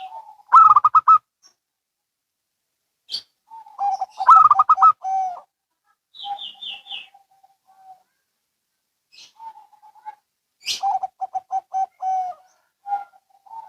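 Zebra doves (perkutut) cooing back and forth: phrases of quick rolling coos, with gaps between them, as one bird answers another. A short run of higher chirping notes comes about six seconds in.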